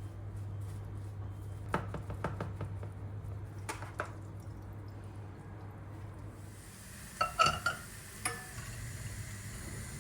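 Kitchen dishes and utensils being handled: a few separate knocks, then a short clatter of ringing clinks about three-quarters of the way through, over a steady low hum. A steady hiss comes in a little past halfway.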